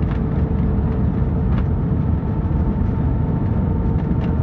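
Airbus A321 cabin noise in flight: a steady low rumble of engines and airflow with a faint steady whine, and a second higher whine joining about halfway through.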